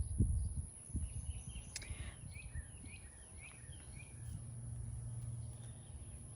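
A small bird chirping, a quick string of short high notes about two seconds in, over low wind rumble and handling thumps on the microphone.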